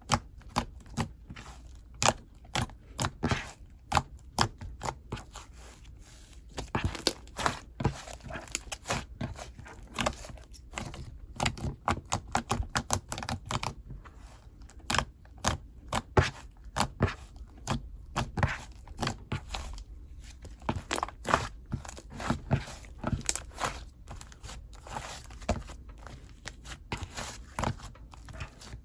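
Hands squishing and stretching a soft, fluffy clay slime, making many quick crackling clicks and pops at an uneven pace.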